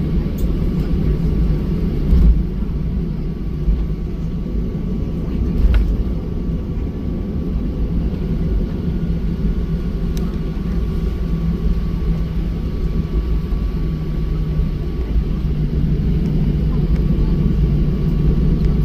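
Cabin noise inside a Boeing 737-800 with its CFM56 engines running: a steady low rumble with a thin steady whine above it, and a few light knocks and rattles about two, six and ten seconds in.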